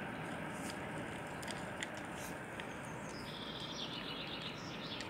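Steady background hiss with a few faint ticks, and a bird chirping briefly a little past the middle in a quick run of high notes.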